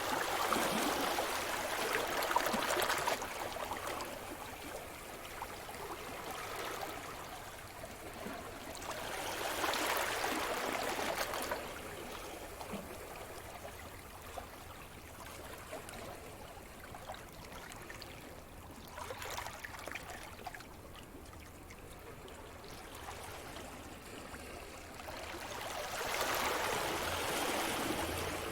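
Sea surf breaking and washing onto the shore, rising to a hissing surge and falling back again four times, roughly every eight to ten seconds.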